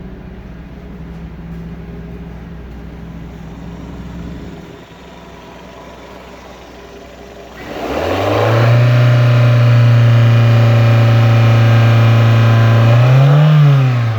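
Toyota 3S-GE 2.0-litre inline-four running at idle, then revved up about eight seconds in and held at a steady higher engine speed for about five seconds, with a short further rise near the end before dropping back: a test of the engine at idle and mid revs.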